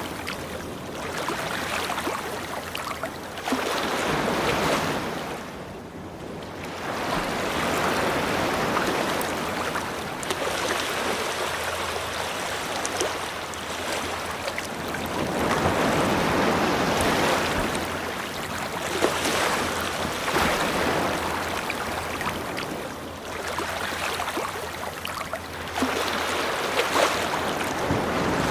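Ocean waves washing onto a beach, the surf swelling and easing every few seconds.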